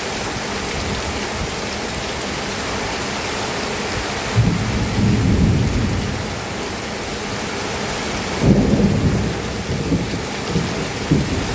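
Steady rain hissing, with low rolls of thunder: one starting about four seconds in and lasting a second or two, another starting about eight and a half seconds in, followed by a few short rumbles near the end.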